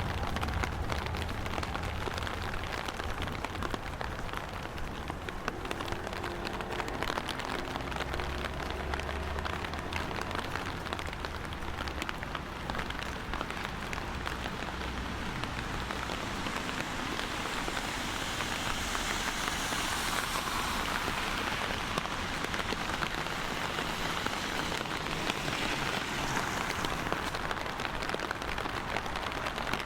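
Steady rain falling, a dense hiss of many small drop ticks. A low rumble sits under it in the first third.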